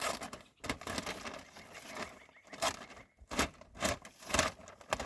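A series of irregular sharp knocks or taps, several strong ones in the second half.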